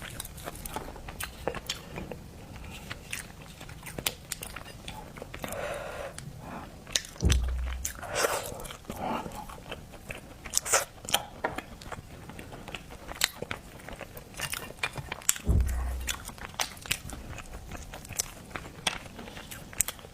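Close-miked chewing and biting of seafood, with many wet clicks and crunchy crackles. Two dull low thumps come about seven seconds in and again near sixteen seconds.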